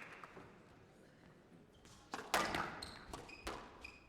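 Squash ball being struck and hitting the court walls during a rally, with two sharp hits in the second half, and a few short high squeaks of shoes on the court floor.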